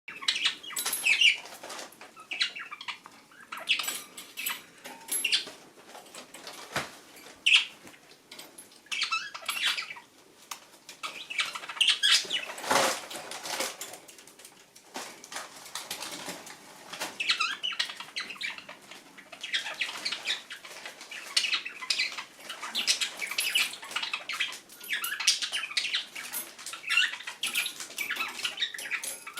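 Budgerigar bathing: repeated flurries of wing fluttering and water splashing as it ruffles in the bath water.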